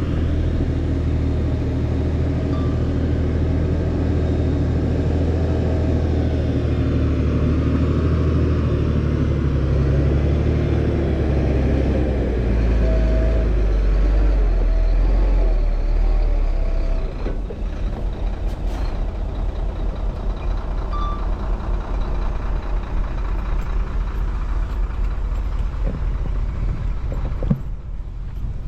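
Heavy diesel engine of earthmoving equipment running under load with a deep rumble, its pitch shifting as the revs change; about sixteen seconds in the load drops away and the engine carries on more lightly.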